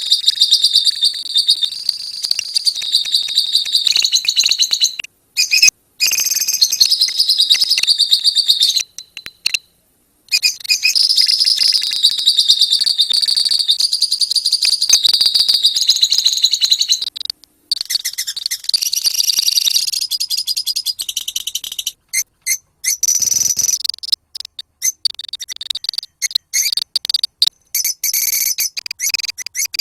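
A colony of lovebirds chattering: rapid, shrill, high-pitched calls in long runs, broken by a few short pauses.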